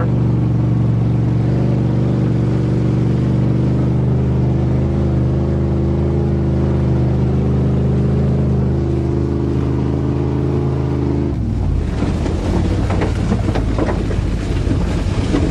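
1988 Chevrolet pickup truck engine running at a steady speed while driving. About eleven seconds in, the steady engine note drops away abruptly and gives way to rough rattling and wind noise.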